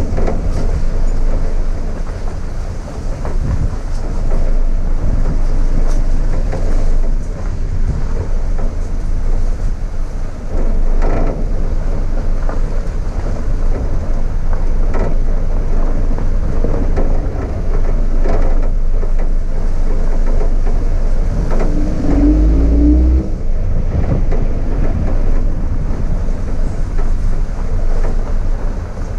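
Steady vehicle running noise, a continuous low rumble with a short pitched blip about three quarters of the way through.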